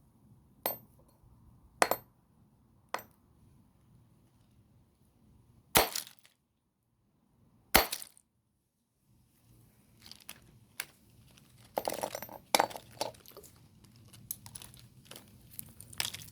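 Hammer blows smashing a plastic toy car: five sharp separate strikes in the first eight seconds, then a busier run of small clicks and clattering from about ten seconds in as broken pieces rattle.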